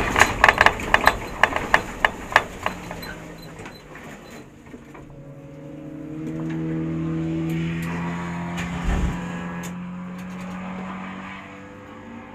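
A race car's V8 runs at low speed with an uneven, loping string of pops for about two and a half seconds, then falls quiet. After that a steady droning hum swells and fades, with a single low thud about nine seconds in.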